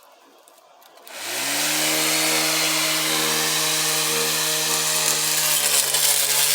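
Blender motor of a homemade grass trimmer switching on about a second in, spinning up with a quick rising whine and then running steadily at high speed on its maximum setting.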